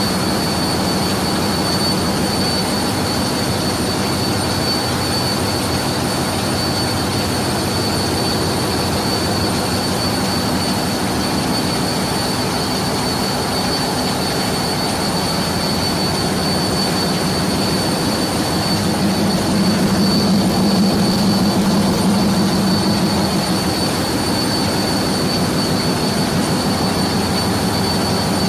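Turbocharger of a Wärtsilä 34SG gas engine running at steady speed, a constant high whine over the loud, dense running noise of the engine. The low noise swells slightly for a few seconds about two-thirds of the way through.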